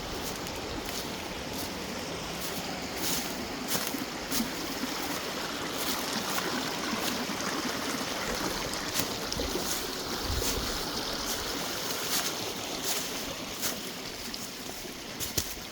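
Creek water rushing steadily, with scattered short clicks over it.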